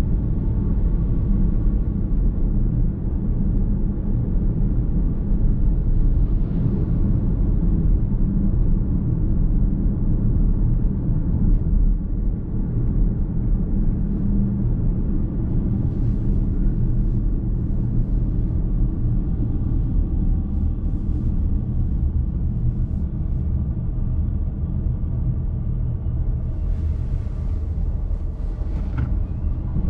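Steady low rumble of a car's road and tyre noise heard from inside the cabin while driving.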